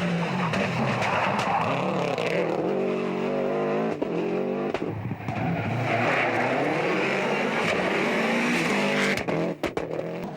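Subaru Impreza 555 WRC rally car's turbocharged flat-four engine at full effort on a stage. Its pitch climbs and drops repeatedly as it revs through the gears, with brief dips in the sound around the middle and again near the end.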